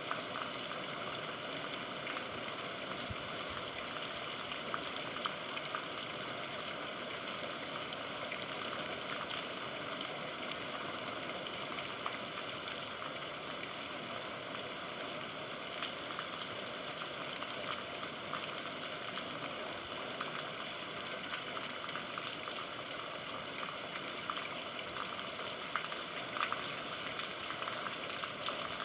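Steady rain falling, an even hiss with a dense crackle of individual drops.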